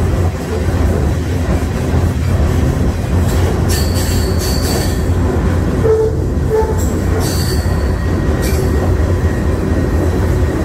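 Freight train rolling along, heard from aboard one of its cars: a loud, steady rumble of wheels and cars, with high-pitched wheel squeal rising up and dying away several times.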